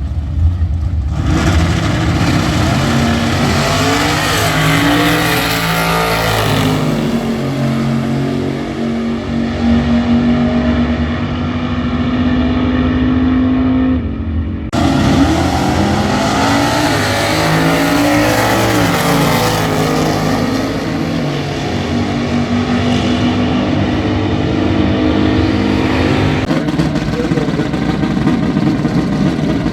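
Drag racing cars' engines at full throttle on the strip, loud and climbing in pitch with steps at gear changes. The sound changes abruptly about a second in and again about halfway, as one run gives way to another.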